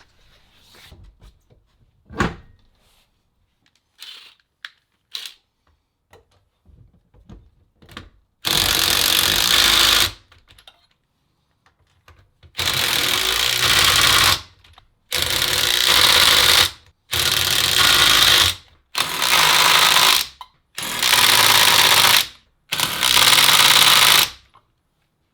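Impact wrench running lug nuts onto a camper wheel in seven short bursts, each lasting about a second and a half to two seconds. Before the bursts there are a few faint knocks as the wheel and nuts are handled.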